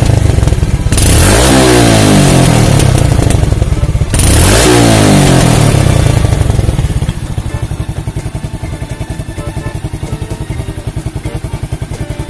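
Yamaha Jupiter-type motorcycle engine revved hard twice, each time rising and falling back, then settling to an even putter at idle. This is the kind of bike whose exhaust popping on deceleration is the fault at issue.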